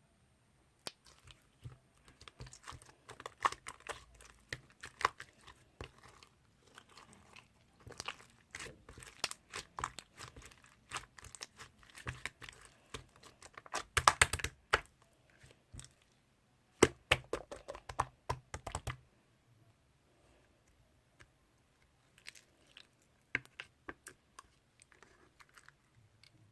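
Slime being squeezed, pressed and stretched by hand, giving dense runs of crackling clicks and pops. The loudest bursts come just past halfway, then the sound thins to scattered clicks for the last several seconds.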